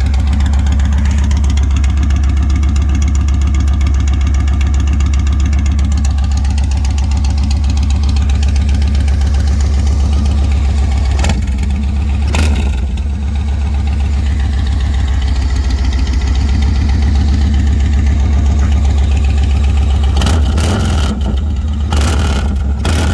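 2006 Yamaha Stratoliner 1900's air-cooled V-twin running through a new stainless header, collector and muffler, idling with a deep rumble. A few short sharp noises come around the middle and again near the end.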